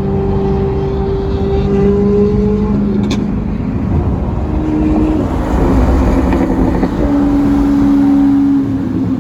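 Car engines running while driving in traffic, a steady drone whose pitch shifts a few times, over low road rumble.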